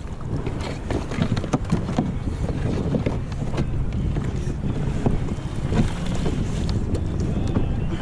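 Wind buffeting the microphone in a steady low rumble, with frequent short splashes and knocks of water against the hull of a Hobie Adventure sail kayak.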